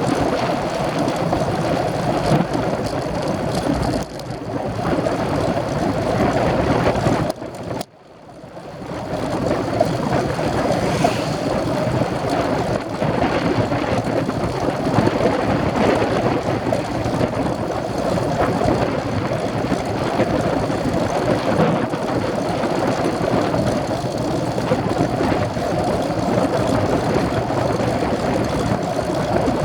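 Wind rushing over the microphone of a camera on a racing bicycle being ridden: a steady rumbling noise. It drops away sharply about eight seconds in and then builds back up.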